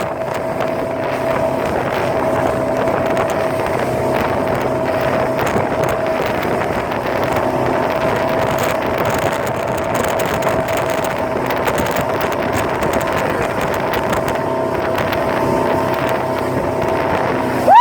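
Motorboat engine running at a steady pitch while under way, with wind noise on the microphone.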